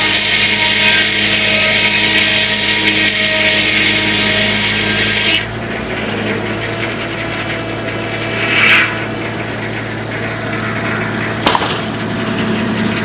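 Homemade circular sawmill blade cutting through a log, the cut ending abruptly about five seconds in. The tractor engine driving the mill runs steadily underneath throughout. A brief rush of noise and a single sharp click follow later.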